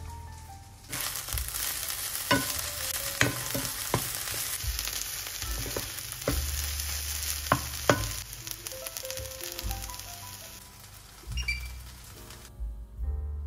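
Diced eggplant frying in oil in a nonstick pan: a steady sizzle, with a wooden spatula stirring and knocking sharply against the pan several times. The sizzle starts about a second in and stops near the end.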